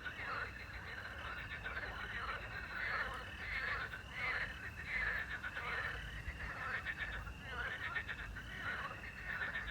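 Chorus of frogs croaking in overlapping rasping, pulsed calls, with crickets chirring steadily above them.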